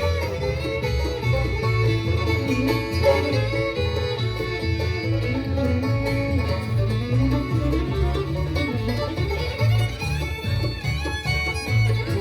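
Live bluegrass band playing an instrumental: a fiddle carries a gliding melody over banjo, guitar and a steady bass pulse.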